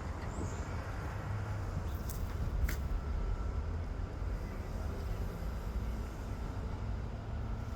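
Outdoor background noise: a steady low rumble with a faint hiss, broken by two faint clicks a little over two seconds in.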